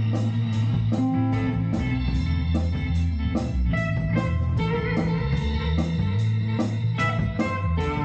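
A band playing instrumental music: electric guitar over bass with a steady beat.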